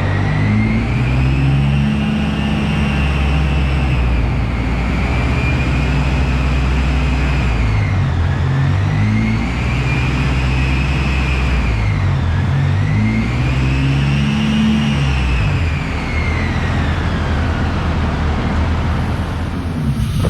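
K24-swapped Honda Civic EG race car's 2.4-litre four-cylinder engine running hard under load, the revs climbing, holding and dropping back three or four times, with a high whine rising and falling along with it.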